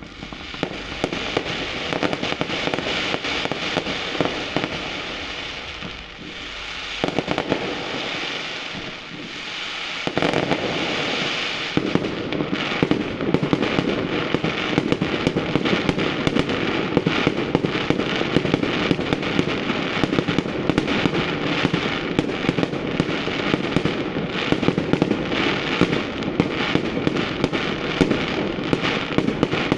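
Fireworks display: a dense, continuous crackle of many small bursts with sharper bangs scattered through it, growing thicker and louder after about ten seconds.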